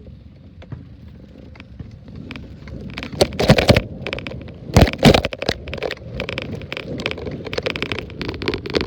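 Riding noise picked up by an iPad taped to bicycle handlebars: a steady low rumble of the ride with scattered rattling ticks, and two loud noisy bursts, about three and a half and five seconds in.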